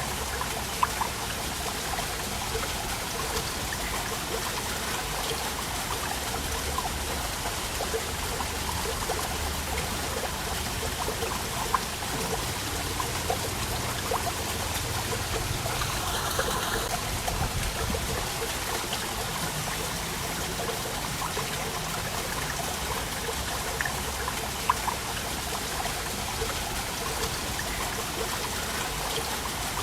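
Waterfall: a steady rush of falling water with small splashes and drips on top, occasional sharper splashes, and a brief louder gush just past halfway.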